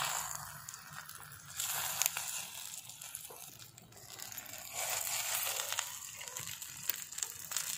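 Stuffed brinjals frying in oil in a clay pot, a steady sizzle with crackling and the scrape of a spatula as they are turned.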